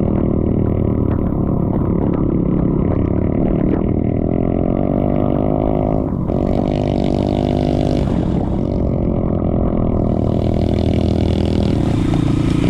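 Motorcycle engine running steadily under way, with a rushing hiss coming in twice, from about six to eight and a half seconds and again near the end.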